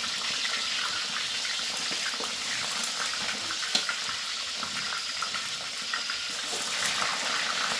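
Pieces of fish frying in hot oil: a steady sizzle with scattered crackles and one sharper pop about four seconds in.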